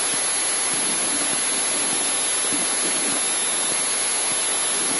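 Steady, even hiss of cockpit noise on a Cessna 152's headset intercom audio, with no distinct engine note or other events.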